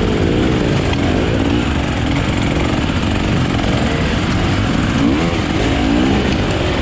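Off-road dirt bike engine running under way, its pitch rising and falling repeatedly as the throttle is worked, over a steady rumble of noise.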